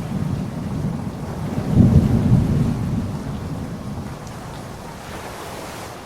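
Steady rain with a low rumble of thunder that swells about two seconds in and slowly fades away.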